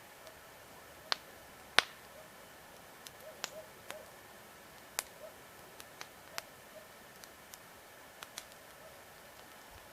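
Wood campfire crackling: logs burning with sharp, irregular pops and snaps, the loudest about two seconds in.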